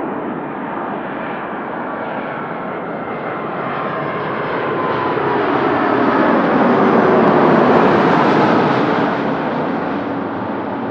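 Jet airliner passing close by. The engine roar builds to a peak about seven to eight seconds in, then eases off, and an engine whine falls in pitch as the aircraft goes past.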